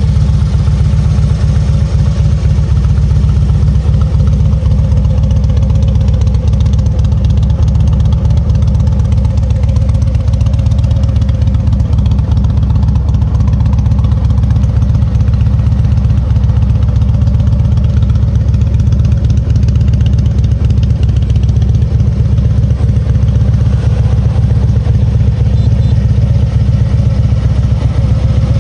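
Harley-Davidson Street Glide's Twin Cam 103 V-twin idling steadily through aftermarket Cobra silencers.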